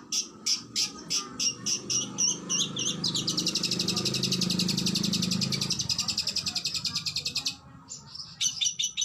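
Oriental magpie-robin (kacer) singing: loud, sharp high notes repeated about four times a second, breaking into a fast, rapid-fire trill for about four seconds. After a brief pause near the end, the sharp notes start again.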